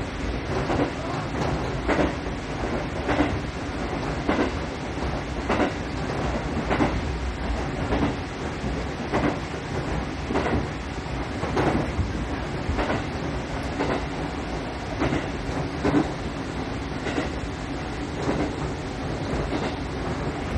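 Cabin of a diesel local railcar running at steady speed: a low running rumble with the wheels clacking over rail joints at an even beat, about one clack a second.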